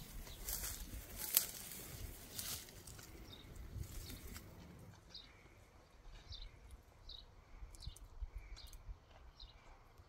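Quiet outdoor ambience with a few scattered knocks and rustles in the first half. From about halfway through comes a short high chirp, repeated every half second to a second, most likely a small bird calling.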